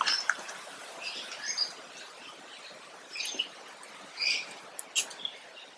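Small birds chirping, several short high calls about a second apart.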